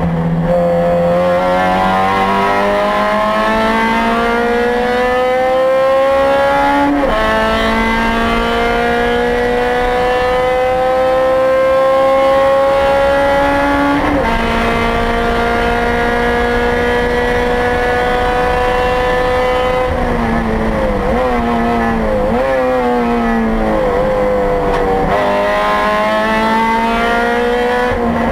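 2008 Honda Civic Si race car's four-cylinder engine heard from inside the cabin, revving up through the gears with upshifts about seven and fourteen seconds in. It then holds a steady pitch for several seconds. As the car slows and shifts down, the pitch dips and jumps several times, and near the end it climbs again under acceleration.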